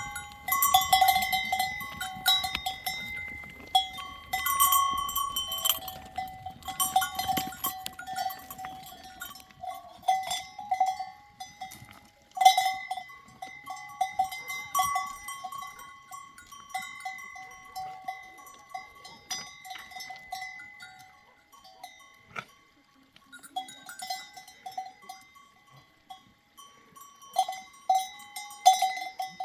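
Neck bells on a grazing flock of livestock clanking irregularly as the animals move, several bells of different pitch. The strikes are thick in the first half and thin out later.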